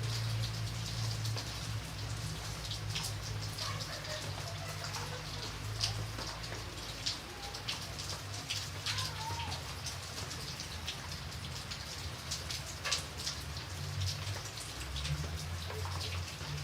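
Steady rain, with individual drops ticking irregularly on a surface over an even hiss, and a low rumble underneath.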